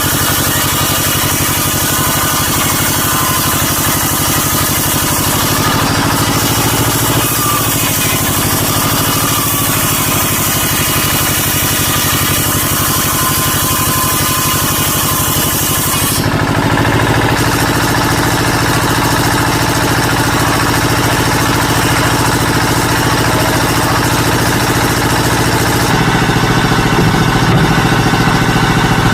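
A motor-driven woodworking power tool running steadily, its tone changing about halfway through and again near the end.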